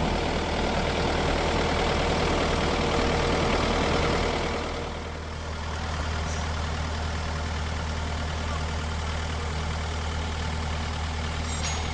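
An engine idling steadily with a low, even hum. A broad rushing noise over it eases off about four and a half seconds in.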